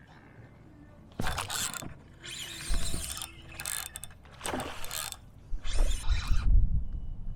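Fishing reel whirring and clicking in five short bursts of about half a second to a second each, with a low rumble of handling under the last part.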